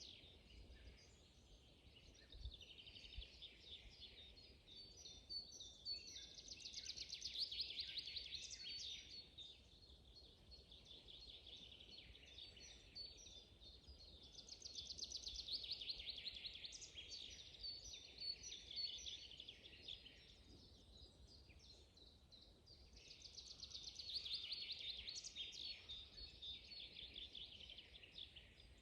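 A songbird singing three long, rapid trilling songs, one about every eight or nine seconds, over a faint low rumble.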